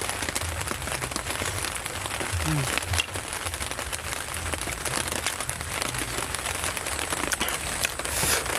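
Steady heavy rain, an even hiss with scattered ticks of drops.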